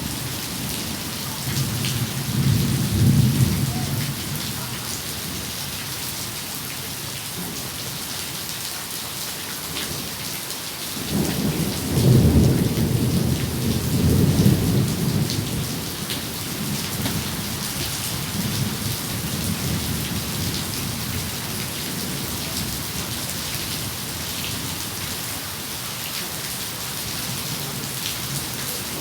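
Steady heavy rain with thunder rumbling: a low roll swells about two seconds in, and a longer, louder one begins around eleven seconds in and fades over several seconds.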